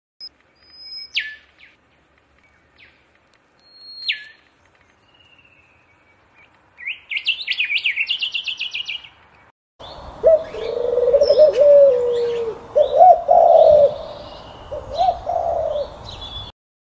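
European robin singing: a few thin, high whistled notes and downward sweeps, then a rapid trill about seven seconds in. About ten seconds in it cuts to feral pigeons cooing in a flock over a low background rumble.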